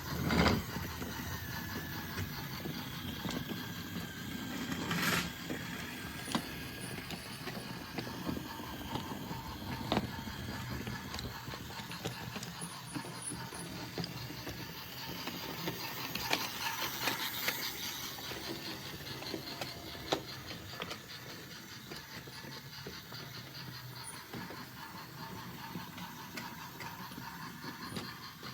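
Hape battery-powered toy train running on wooden track: the small electric motor and gears whir steadily, with occasional clicks and knocks.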